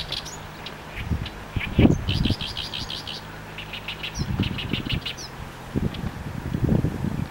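Small birds chirping in quick runs of short, high notes, several runs in a row, with low gusts of wind buffeting the microphone.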